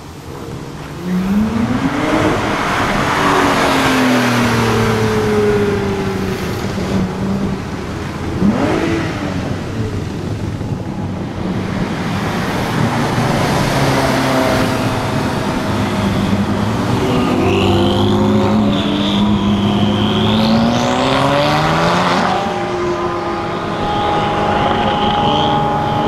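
Sports cars, a Ferrari 458 Italia among them, accelerating away one after another, their engines revving up and dropping in pitch as each pulls past. A high wavering squeal sounds for a few seconds in the last third.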